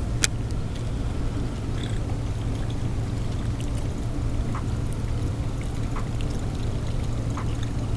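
Steady low rumble and hiss of outdoor ambience on the water, with one sharp click just after the start and a few faint ticks later on.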